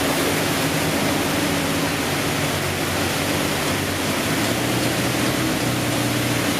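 High-pressure car-wash water jets spraying in a steady hiss, with a motorcycle engine idling underneath.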